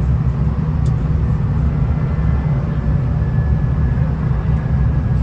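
V/Line VLocity diesel railcar running, a steady low rumble with faint thin tones above it.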